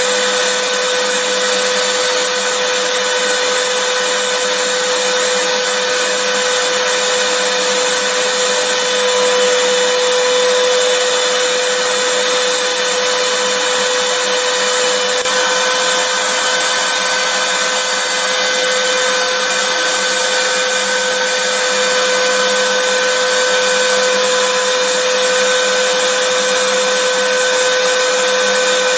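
Vacuum cleaner running steadily: an even rushing hiss with a constant whine held on one pitch.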